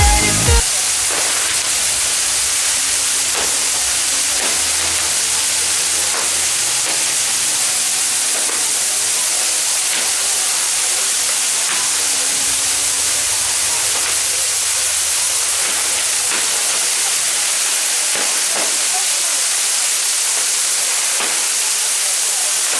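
Ground fireworks burning with a loud, steady hiss, the continuous spray of fountains, with scattered faint crackles through it. A dance-pop song cuts off about half a second in.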